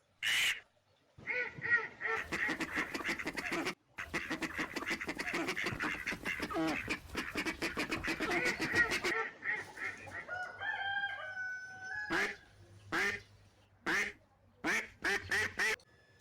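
A group of ducks quacking together in a dense, continuous chatter for several seconds, then breaking into separate short calls near the end.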